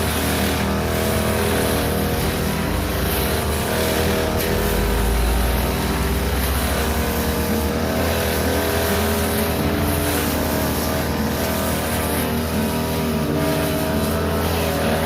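Small petrol engine of a grass-cutting machine running steadily at working speed while cutting overgrown grass, with a slight swell in the low end about five seconds in.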